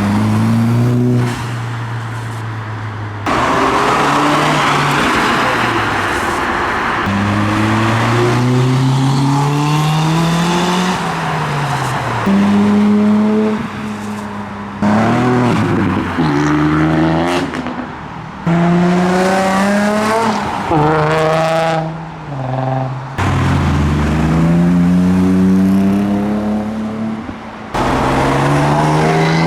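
Modified cars' engines revving hard one after another as they pull away, the pitch climbing through each gear and dropping at the shifts, in short passes that cut abruptly from one car to the next.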